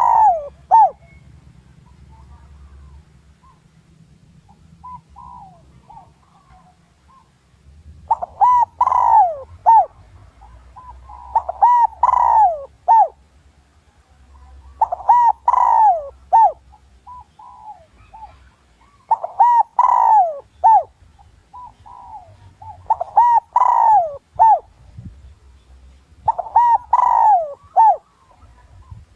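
Spotted dove cooing: short phrases of a few coos, repeated every three to four seconds, after a quiet gap of several seconds near the start. It is decoy cooing, the call used to provoke wild male doves into answering.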